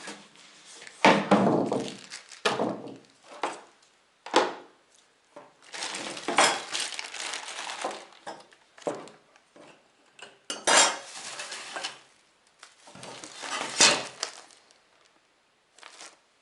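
Contents of a diesel heater kit being handled and unpacked: irregular bursts of clattering and knocking of hard parts, several in a row with short pauses between them.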